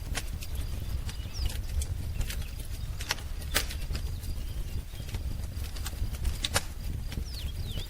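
Wood fire crackling, with irregular sharp pops over a low steady rumble of the flames. A few faint short bird chirps come through, once early and twice near the end.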